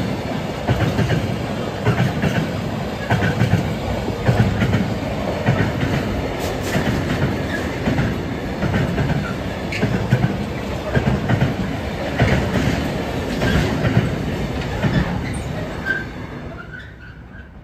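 Intermodal freight train of container wagons passing at speed over a level crossing: a steady rumble with the repeated clatter of wheels over the rail joints. A brief high wheel squeal comes just before the sound fades away near the end as the last wagon goes by.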